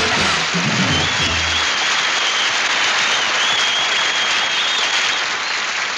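Audience applauding steadily as the band's final note dies away about a second and a half in, with a long high whistle over the clapping.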